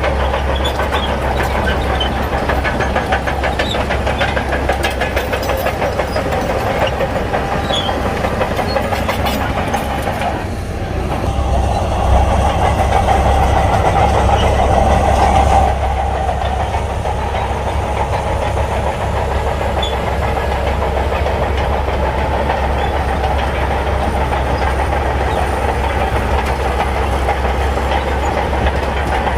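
Shantui crawler bulldozer's diesel engine running under load with the clanking of its steel tracks. The engine dips briefly about ten seconds in, then runs louder for a few seconds before settling back.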